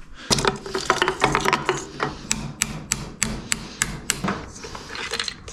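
Metal tapping and scraping on a motorcycle engine's piston as its stiff piston pin is knocked out: scattered clicks, then a quick run of sharp taps about four a second, then softer scraping.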